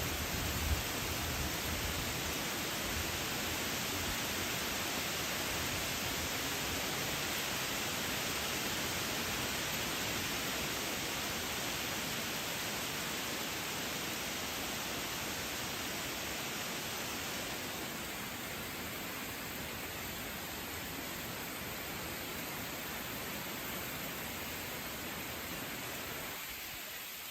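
Steady rushing hiss of storm rain and wind, with low wind buffeting on the microphone in the first few seconds.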